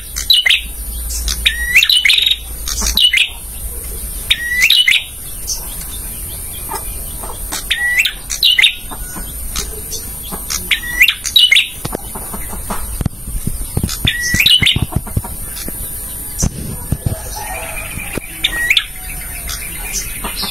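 Male prenjak calling: short, sharp, sweeping chirps in quick pairs and clusters, repeated every two to three seconds over a steady high hiss.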